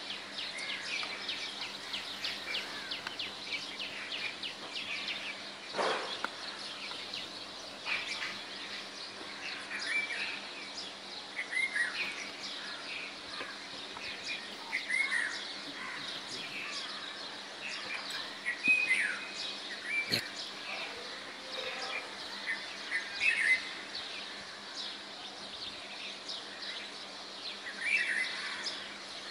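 Birds chirping and calling, many short scattered chirps overlapping throughout, with a sharp knock about six seconds in and another about twenty seconds in.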